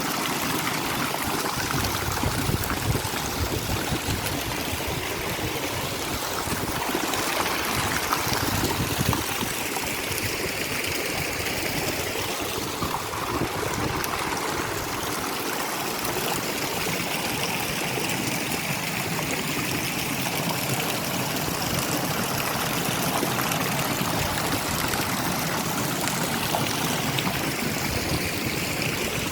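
Running water in a small stream, flowing and trickling steadily at an even level.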